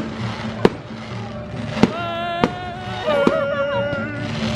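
Fireworks exploding in a display: four sharp bangs, roughly one a second. Under them runs background music, with a long held note in the middle.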